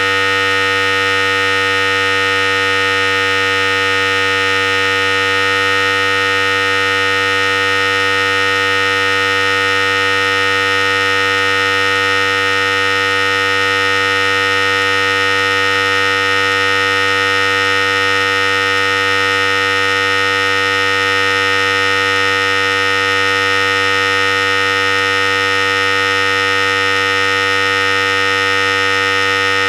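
Philips Series 5000 electric hair clipper running steadily: a constant buzzing hum with strong high overtones that does not change in pitch or loudness.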